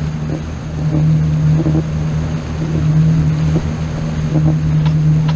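Engine running at a steady speed, a continuous low drone with wind noise on the microphone.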